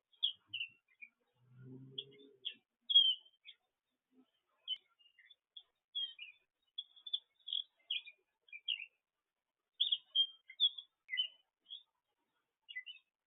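Songbirds chirping: short, high chirps and tweets in quick, irregular runs with brief pauses between them. A faint low sound comes in briefly about two seconds in.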